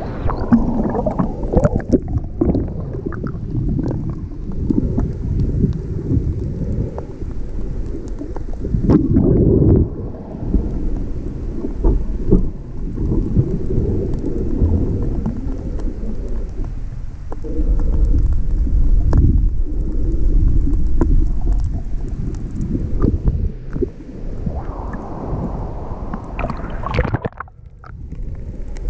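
Rough sea water churning around a camera held in the surf and dipped under the water: a muffled, low wash of waves that swells and ebbs in surges, with splashes.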